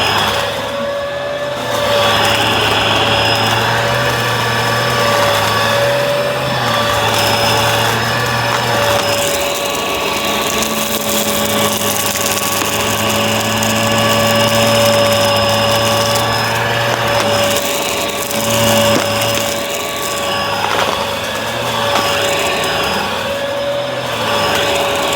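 Bissell vacuum cleaner running, its motor holding a steady whine while a lower hum changes pitch a couple of times.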